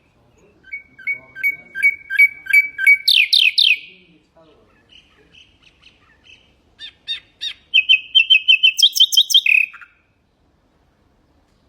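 Nightingale singing two phrases of quick repeated notes, each building to louder, higher notes. The second phrase ends in a fast trill, and the two are about two seconds apart.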